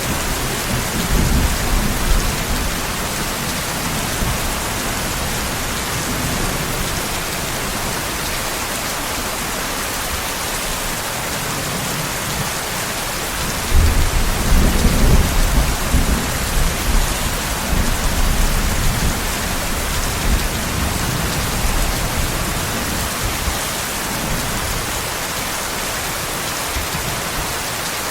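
Steady rain with rolling thunder. A low rumble comes about a second in, and a louder one begins about halfway through and rolls on for several seconds.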